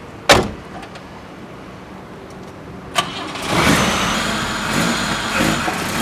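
A car door shuts with a sharp thud, then a click about three seconds in and the 1979 BMW E21's engine cranks, catches and keeps running.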